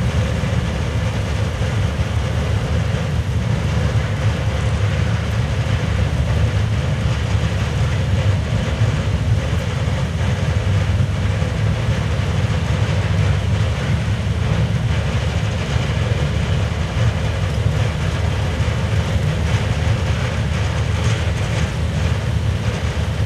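Steady low rumble of racing saloon car engines running as the cars form up on the grid.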